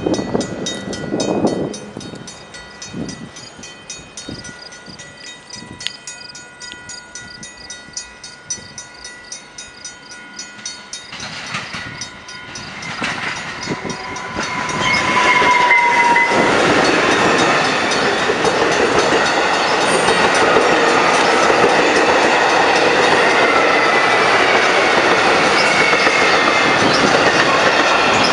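Level-crossing bell ringing with rapid, even strikes while the crossing signals flash. A short horn note comes about halfway through. Then an electric multiple-unit commuter train passes close by, loud and steady, with its wheels clattering over the rail joints.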